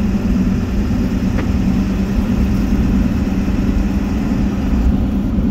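Four-wheel-drive truck driving, a steady engine hum and road rumble heard from inside the cab.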